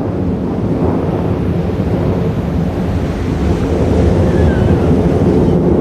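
Loud, steady jet roar from the USAF Thunderbirds' F-16 fighter jets flying past, a deep rumble that grows slightly louder about four seconds in.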